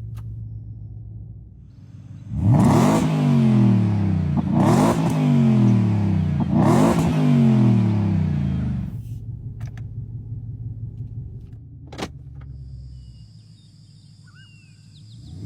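Ford truck engine idling, then revved three times in quick succession, each blip rising sharply and falling back slowly, about two seconds apart, before settling back to idle. A single sharp click comes a few seconds after the revving.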